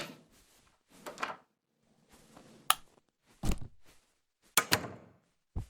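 A few separate knocks and thuds with quiet gaps between them and a sharp click about midway, like a door being unlocked and handled.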